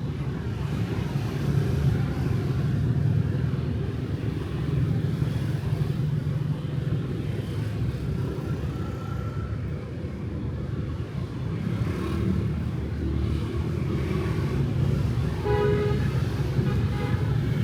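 Street traffic of motorbikes and cars passing, a steady rumble of engines and tyres. A vehicle horn sounds briefly near the end.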